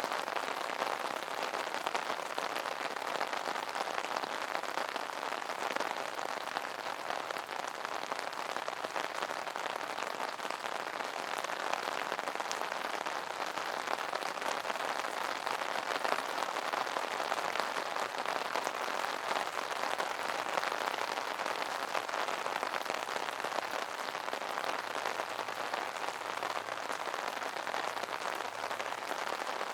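Steady rain falling on an umbrella canopy, a dense patter of many small drop impacts.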